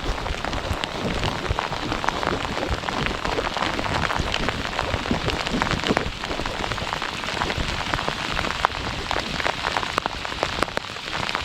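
Steady rain falling, with many small sharp drop taps close to the microphone.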